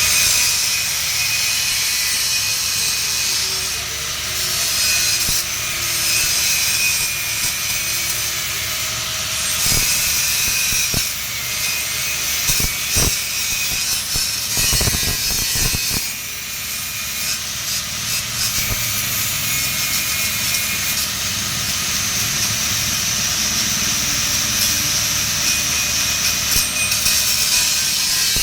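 Electric welding arc running on a 3-inch schedule 80 steel pipe joint: a steady, loud hiss, with a few short knocks about halfway through.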